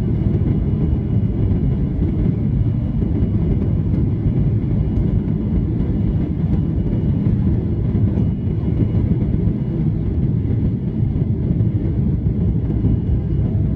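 Boeing 737-800 cabin noise: a steady, loud, low rumble with no breaks, and a faint thin high tone running through it.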